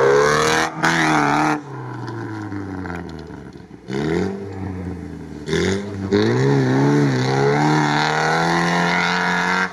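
UAZ off-roader's engine revving hard in bursts while driving a rough off-road course, its pitch rising and falling again and again as the throttle is worked. It drops back about a second and a half in, almost dies away near four seconds, then climbs again.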